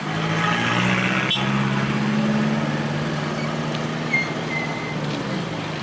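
A vehicle's engine running steadily close by, a low even hum that comes up at the start and drops away shortly before the end, with a single sharp click about a second and a half in.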